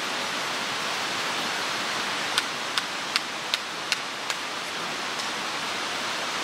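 Steady rush of a mountain stream, with a quick run of six sharp clicks, evenly spaced, in the middle.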